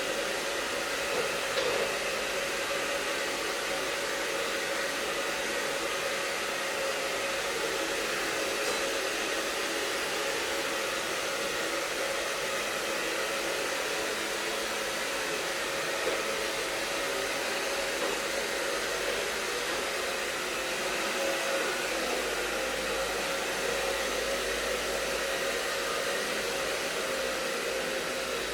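Handheld hair dryer running steadily on, an even blowing hiss with a constant motor whine.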